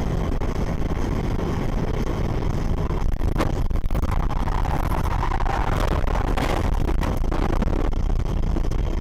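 A car's engine and road noise, a steady low rumble as recorded by a dashcam while the car is driven, with a few brief knocks in the middle.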